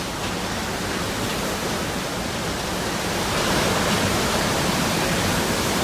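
Steady rushing roar of hurricane wind and storm-driven water, with gusts buffeting the microphone; it swells a little louder about halfway through.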